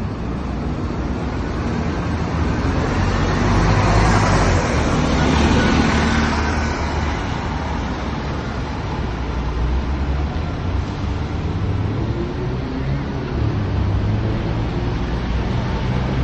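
Scania K230UB city bus's five-cylinder diesel engine running, swelling to its loudest about four seconds in, with a rising whine near the end as it picks up speed.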